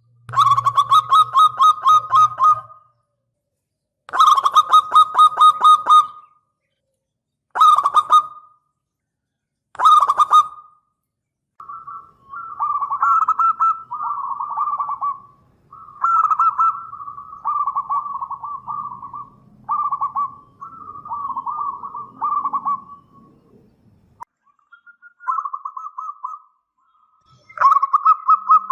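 Zebra dove (local perkutut) cooing: phrases of rapid, stuttering notes at a steady pitch, each lasting one to two seconds with short gaps between them. In the middle the phrases run closer together with hardly a pause.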